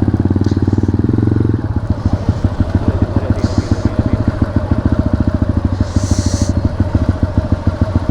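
A motorcycle engine idling close by, with an even, rapid pulsing beat.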